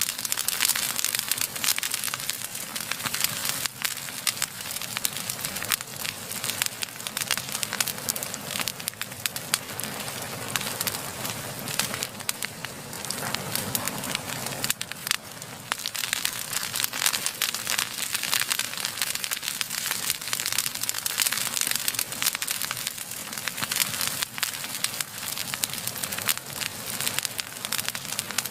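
Blazing fire crackling steadily, a dense stream of small snaps and pops.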